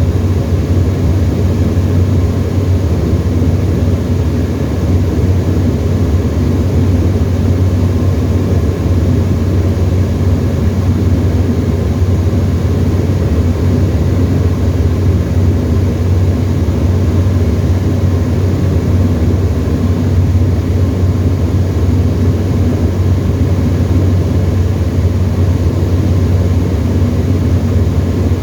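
Tecnam ultralight's piston engine and propeller in steady cruise, heard from inside the cockpit as a loud, unchanging drone.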